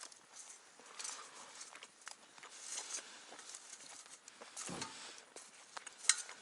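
Scattered light clicks and knocks with soft rustling, a sharper click near the end.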